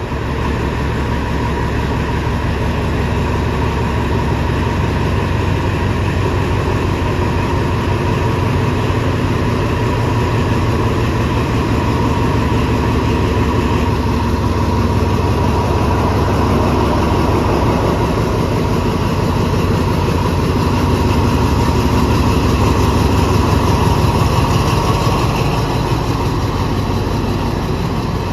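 Diesel train engine running steadily with a low rumble, slowly growing louder and then easing off near the end.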